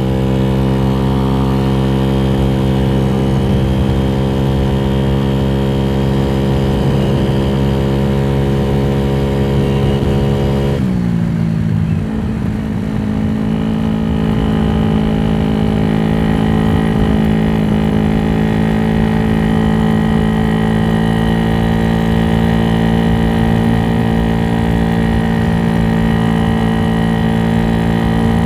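Scooter's GY6 engine, bored out to 88cc, running steadily under way. About eleven seconds in its pitch slides down and it goes briefly quieter, then it holds steady again.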